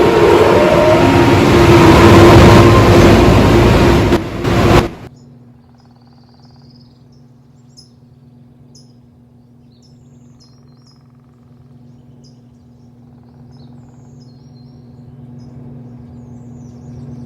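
Car wash machinery makes a loud, even rush with a whining tone, then cuts off suddenly about five seconds in. After that, birds chirp over a low, steady hum.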